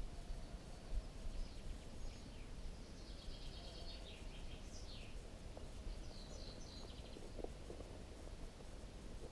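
Faint high bird chirps and a few quick falling calls, mostly in the middle, over a steady low rumble of background noise, with a low thump about a second in.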